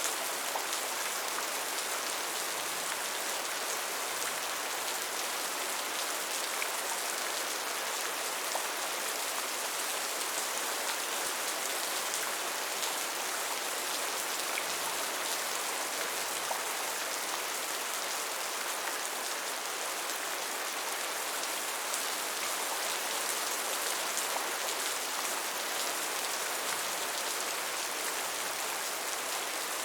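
Steady rain falling, a dense hiss with many small drops ticking on hard surfaces.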